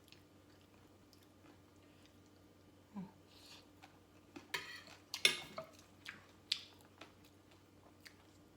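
A person chewing and crunching crisp food at close range, papaya salad with raw vegetables. It is quiet at first; a run of short, sharp crunches starts about three seconds in, and the loudest come near the middle.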